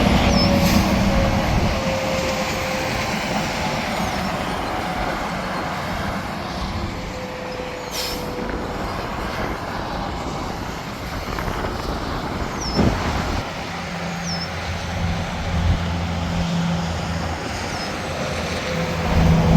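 Interstate highway traffic: trucks and cars passing in a steady rush of tyre and engine noise, with a faint tone slowly falling in pitch as a vehicle goes by.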